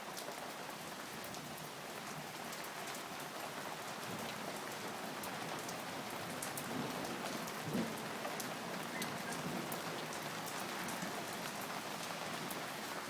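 Steady rain falling, with scattered sharp ticks of drops striking nearby surfaces. There is a brief louder thump about eight seconds in.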